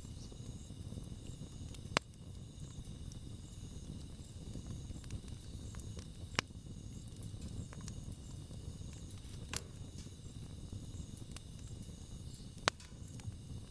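Wood campfire burning with a low, steady crackle and four sharp pops a few seconds apart. Insects chirp steadily in the background.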